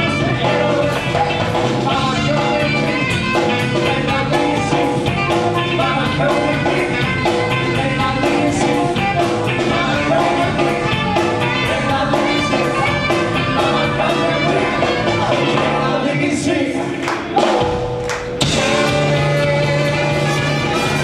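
Live band playing a song with singing. About three-quarters of the way in the band briefly drops away around a single sharp hit, then comes back in full.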